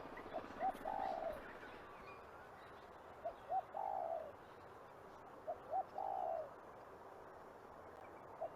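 Pigeon (pomba malhada) cooing: three phrases about two and a half seconds apart, each two short notes followed by a longer, falling coo. A fourth phrase begins at the very end.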